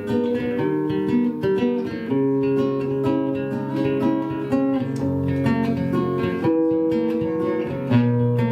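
Acoustic guitar playing an instrumental introduction, notes ringing and changing chords about every second or two.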